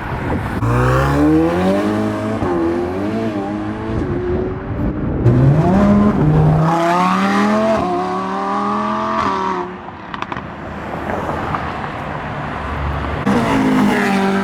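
Supercar engines accelerating as cars pull away one after another, the engine note rising in pitch and dropping back at gear changes. The loudest pull starts about five seconds in and cuts off near ten seconds, and another car begins to rev up near the end.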